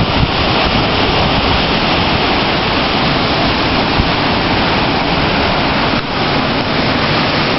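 Strong storm wind blowing hard across the microphone: a loud, steady rush of noise with a brief dip about six seconds in.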